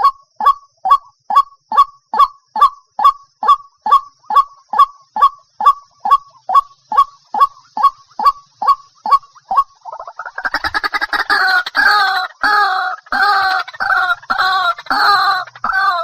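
White-breasted waterhen calling: a regular series of short, sharp notes, about two a second, then about ten seconds in a louder, faster run of harsher, overlapping calls.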